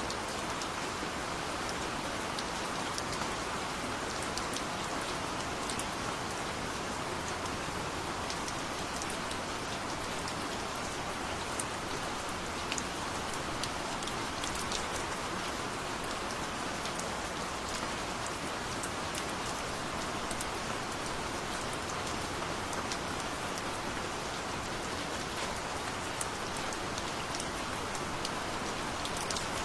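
Steady rain falling on a surface: an even hiss with many small, sharp drop ticks throughout.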